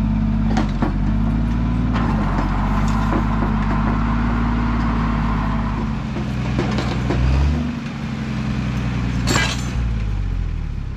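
A large vehicle engine running, its speed shifting a couple of times, with a few sharp metal clanks, then winding down near the end.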